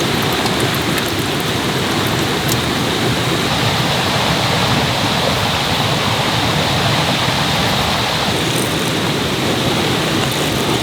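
Mountain stream rushing steadily over rocks, a loud, even wash of water.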